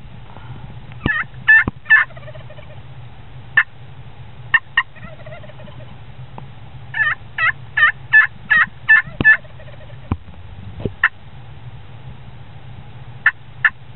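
Turkey yelps: short pitched notes here and there, with a run of about eight evenly spaced yelps in the middle. A steady low hum lies underneath.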